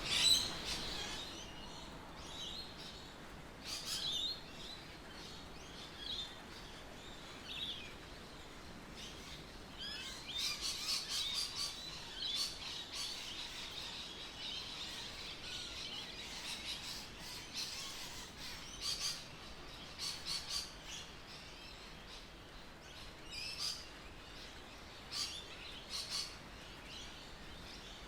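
Birds chirping and calling in short, scattered bursts of high chirps, busiest about ten to thirteen seconds in, over faint steady background noise.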